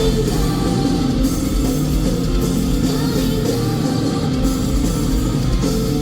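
Live rock band playing at full volume through a large PA, with distorted electric guitar, bass and drums, and a singer's voice in the mix.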